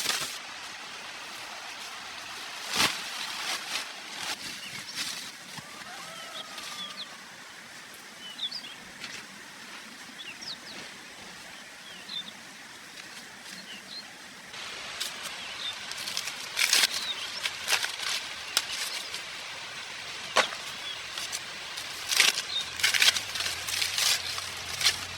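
Outdoor ambience with faint bird chirps and scattered sharp clicks and knocks, more of them in the second half.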